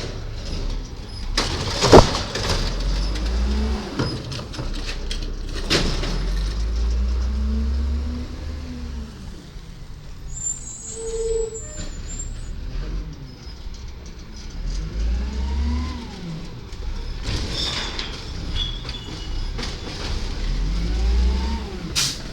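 Garbage truck on its collection route: the engine revs up and falls back several times, with a few sharp bangs, the loudest about two seconds in.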